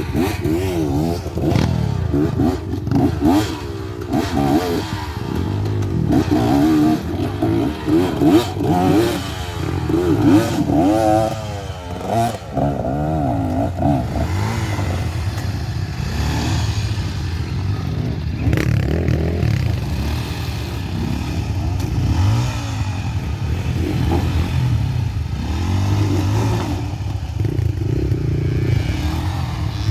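Gas Gas EC200 two-stroke dirt bike engine riding off-road, its revs rising and falling repeatedly as the throttle is worked, steadier in the second half, with scattered knocks and rattles throughout.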